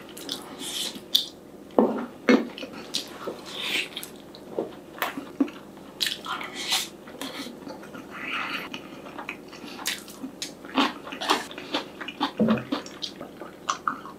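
Close-up eating sounds: chewing rice and air-fried whole Spam with wet smacking mouth sounds and many irregular clicks.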